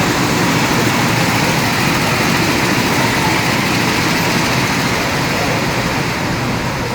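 Go-kart engines running, a loud, steady noise with no distinct pitch.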